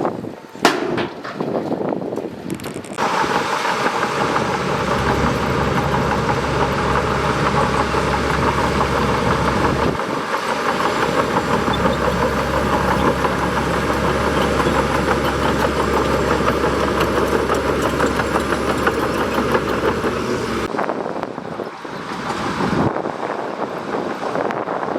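Bulldozer's diesel engine running steadily, with a low drone, the sound changing abruptly a few times as if cut between takes.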